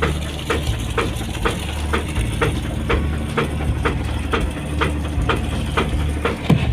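Boat engine running with a low, steady drone, under background music with a regular beat of about two clicks a second.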